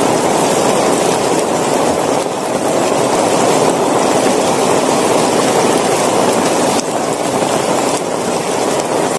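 Heavy rain falling in a steady, dense downpour, a little quieter for the last couple of seconds.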